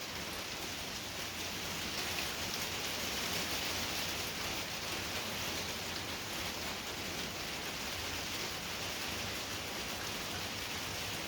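Heavy rain coming down outside, heard from indoors as a steady, even hiss.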